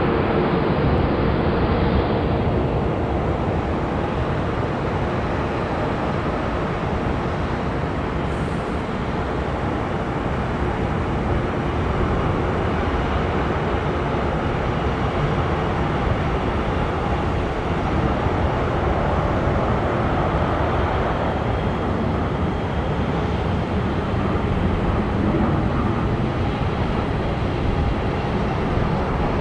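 Jet airliner engine noise: a steady, even rumble, with a faint whine that fades over the first few seconds.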